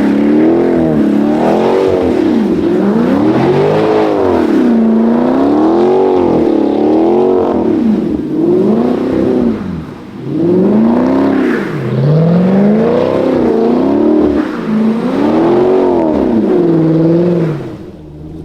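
A Chevrolet Camaro's V8 revving up and down over and over, its pitch rising and falling every second or two, with a brief drop about ten seconds in; it fades near the end.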